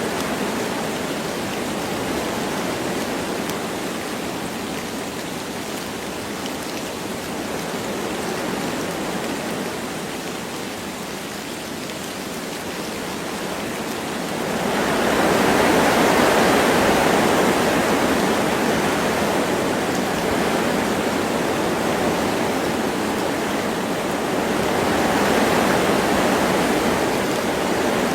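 Wind rushing through forest trees, rising into stronger gusts about halfway through and again near the end, with light rain.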